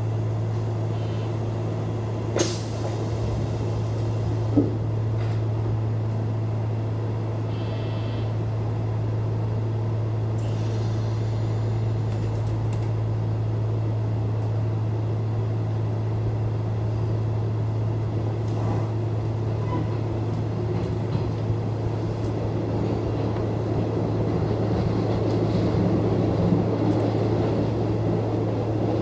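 Electric commuter train of the Nishitetsu Tenjin-Ōmuta Line heard from inside the car as it pulls away after the doors close: a steady low hum, two sharp clicks in the first few seconds, and running noise that slowly builds as the train gathers speed.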